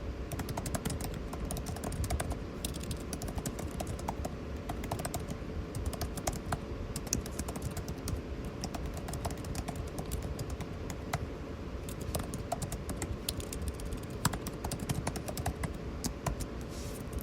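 Computer keyboard typing: fast, irregular key clicks without letup, over the steady hum of an air conditioner.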